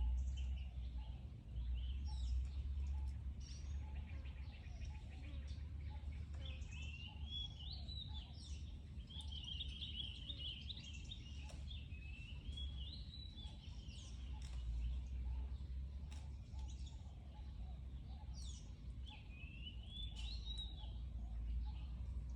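Birds chirping and trilling in quick wavering phrases over a steady low rumble.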